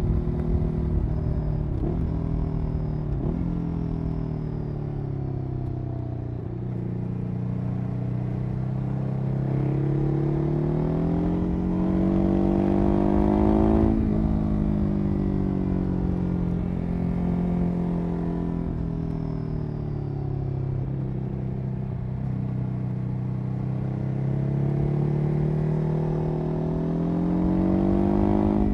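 Ducati 821 L-twin motorcycle engine running through its exhaust, the revs easing down, then climbing slowly to a peak about halfway through. There the pitch drops sharply, and the revs climb again near the end.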